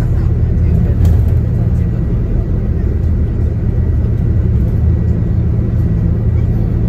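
Shuttle coach driving, heard from inside the passenger cabin: a steady low engine and road drone.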